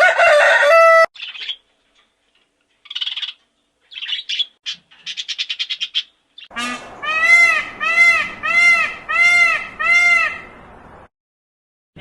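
Chickens calling: a loud call at the start, some short clucks and a quick run of clucking in the middle, then six evenly spaced, arching calls about half a second apart in the second half.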